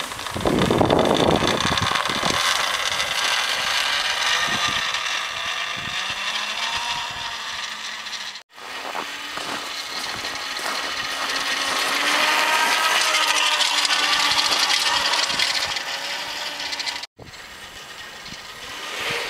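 Zero electric motorcycle being ridden under throttle: the electric motor's whine rises and falls in pitch with speed over a rattly drivetrain and road noise. The sound drops out briefly twice.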